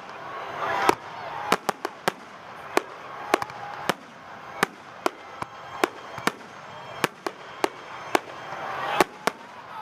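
Fireworks display: a quick irregular series of sharp bangs, roughly two a second, over a continuous crackling hiss that grows louder near the end.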